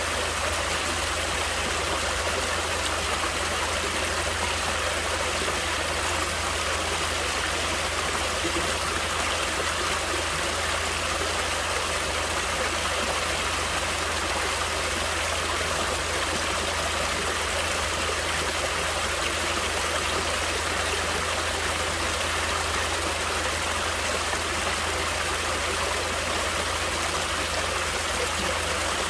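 Natural stream water flowing and splashing in a steady rush, unchanging throughout.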